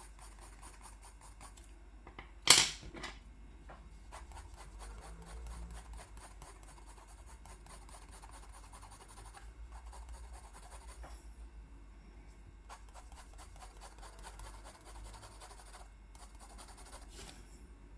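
Quick, repeated strokes of a drawing tool rubbing on paper as an area is coloured in dark, with one sharp knock about two and a half seconds in.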